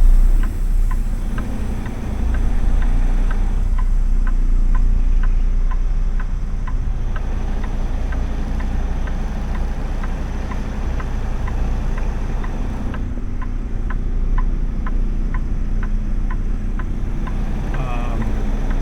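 Inside a semi-truck's cab: low engine and road rumble, with a steady light clicking about twice a second.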